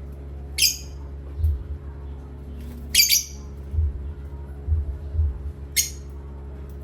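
A pet parrot squawking three times, each call short and shrill, spaced a couple of seconds apart, over a steady low hum.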